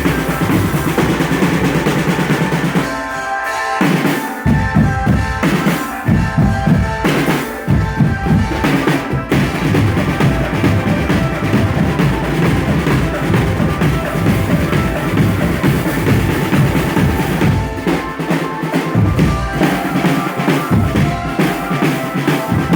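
Marching drum band playing, snare and bass drums beating dense strokes with held melody notes above them. The bass drums drop out for a moment a few seconds in and again near the end.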